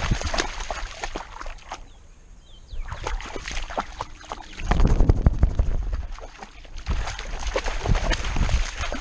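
Wind buffeting and handling rumble on a GoPro carried on a dog's harness, with many irregular knocks and rustles as the camera is jostled by the moving dog. The noise swells and fades, with a quieter lull about two seconds in.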